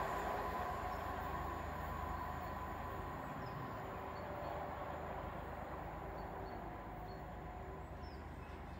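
A Class 317 electric multiple unit going away along the track: its rumble and a steady whine fade gradually as it recedes.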